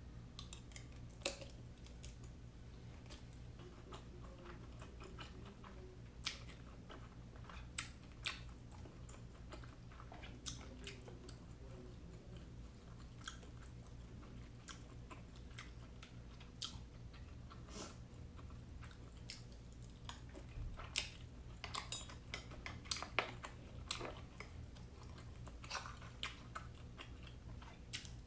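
Close-miked chewing and mouth smacks of someone eating steamed siomai dumplings, with scattered short wet clicks that bunch together about three quarters of the way through, over a low steady hum.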